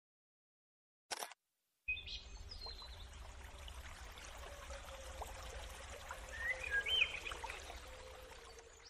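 Faint outdoor forest ambience with a low rumble and a few short bird chirps, loudest a little before the end. A brief burst about a second in is followed by a moment of silence before the ambience starts.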